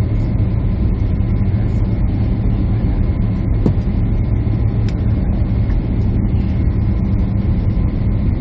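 Steady drone of a jet airliner heard inside the cabin: engine and airflow noise with a low hum, unchanging throughout, with a couple of faint ticks midway.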